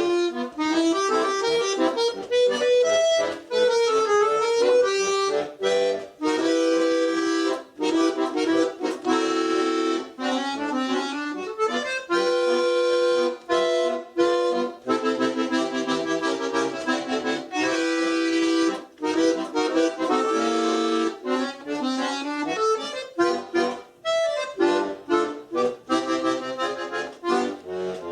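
Solo accordion playing a melody over chords, with short detached chords and brief breaks between phrases that grow choppier near the end.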